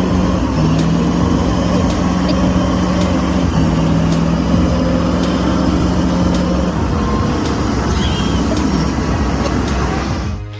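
Heavy truck engine running hard, its pitch stepping down and back up a few times.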